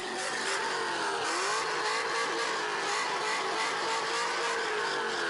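Car engine held at high revs, its pitch wavering up and down as the throttle is worked.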